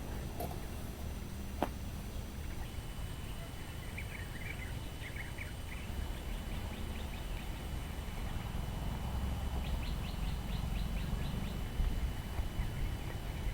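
Outdoor ambience with a steady low rumble and scattered short bird chirps. One sharp click about a second and a half in, and a quick run of ticks near the end.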